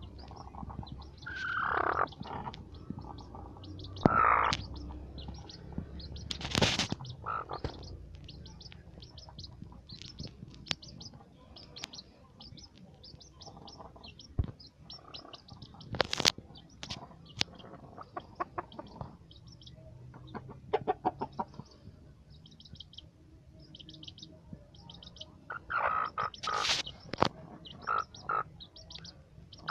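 Chick peeping over and over in short high notes, with a hen clucking now and then, louder calls coming in clusters near the start and again near the end.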